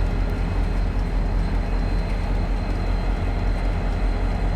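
Diesel-electric locomotives running steadily with a low rumble while switching.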